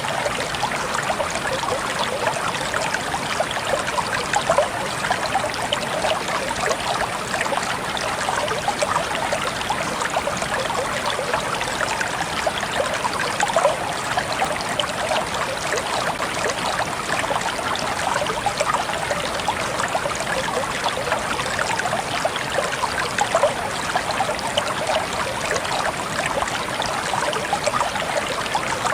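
Water trickling and dripping steadily: a dense, even patter of small drops and splashes with no pauses.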